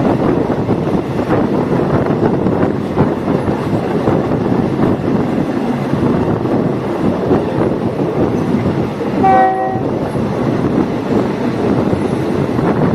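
Diesel multiple unit train running, a steady loud rumble of wheels on rails with a clatter of rail joints, and one short horn blast about nine seconds in.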